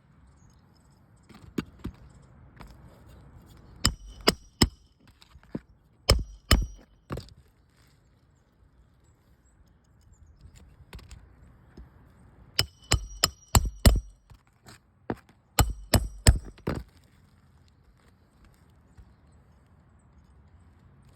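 Hammer driving roofing nails to fasten a replacement asphalt shingle: several bursts of quick, sharp strikes, each with a bright metallic ring.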